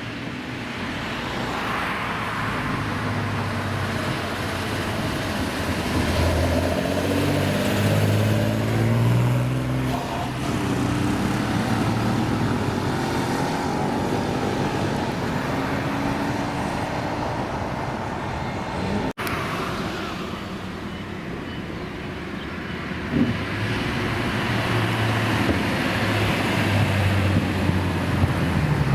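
Engines of custom old cars driving past one after another, their pitch rising and falling as they rev, over steady traffic noise; a brief dropout about two-thirds through.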